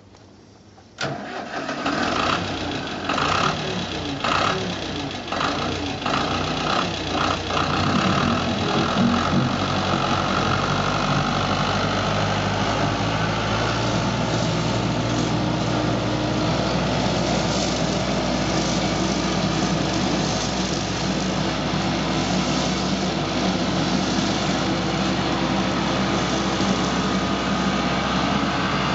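Tractor engine starting about a second in, running unevenly with pulsing beats for several seconds, then settling into a steady run.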